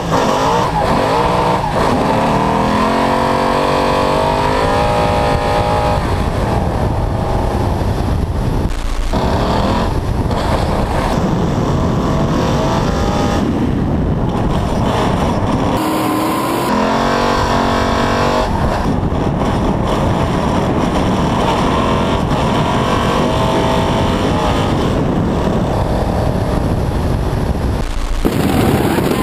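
Ford Mustang RTR drift car's V8 engine at high revs, its pitch climbing and dropping as the throttle is worked through drifts, with tyre noise underneath. The sound changes abruptly several times where separate onboard clips are cut together.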